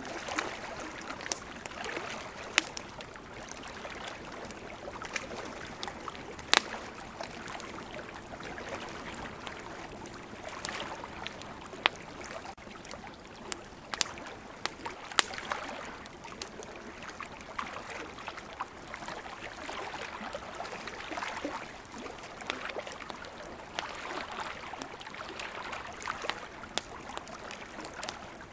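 Wood campfire crackling, with sharp pops scattered irregularly, the loudest about 2.5, 6.5, 12 and 15 seconds in. Behind it runs a steady wash of ocean surf that swells and eases.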